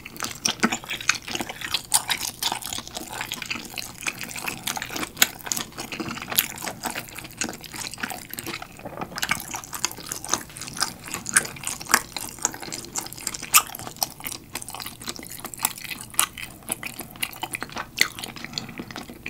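Close-miked chewing of a steamed meat dumpling with a chewy wrapper: a dense, irregular run of sharp mouth clicks and smacks.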